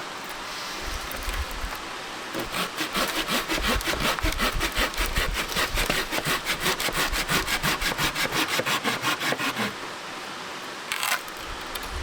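Hand saw cutting through wood in fast, even strokes, about four or five a second, for several seconds before it stops. A short scrape follows near the end.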